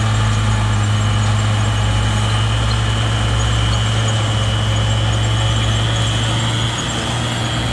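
Bulldozer's heavy diesel engine running steadily with a deep, even hum, and a thin high whine coming in about two seconds in.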